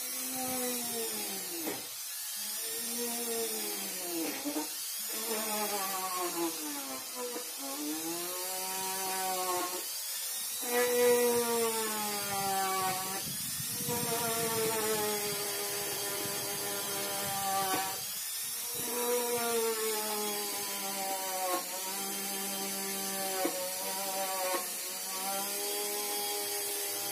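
Yamaha F1ZR's two-stroke single-cylinder engine, fitted with a road-race carburettor, being revved over and over: the pitch climbs and falls with each blip of the throttle, with brief breaks between revs, and holds steadier over the last few seconds.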